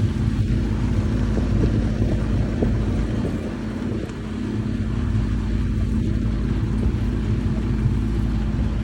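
A vehicle engine running steadily with a constant low hum, with some wind noise on the microphone.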